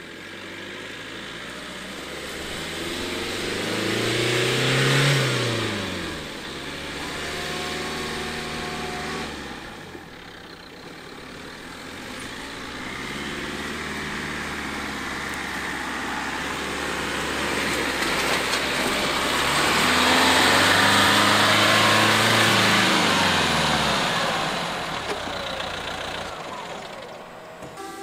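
Duster SUV engine working as the car drives off-road through a grassy meadow. The engine note rises and falls twice: the first peak is about five seconds in, and a longer, louder push comes around twenty to twenty-three seconds, carrying a rushing noise.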